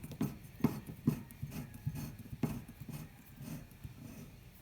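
Irregular light knocks and clicks of plumbing fittings being handled and pushed together, thinning out after about three seconds.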